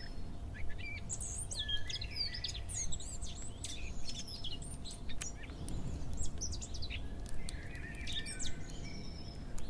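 Small birds chirping and twittering in many short, quick calls over a low steady rumble, with a brief lull about two thirds of the way through.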